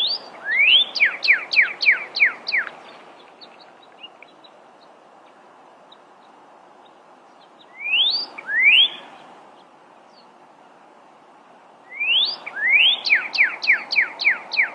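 Pyrrhuloxia (desert cardinal) singing: three phrases, each opening with one or two rising whistles and then a quick run of sharply falling slurred notes. The middle phrase is short.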